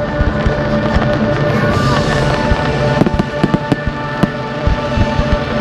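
Firework display: many sharp bangs and crackles of shells bursting in quick succession, with music playing underneath.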